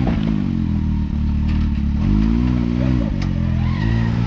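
Can-Am Maverick X3 side-by-side's turbocharged three-cylinder engine working at low speed up a rock ledge: it rises in pitch about two seconds in and drops back about a second later, with some rattling.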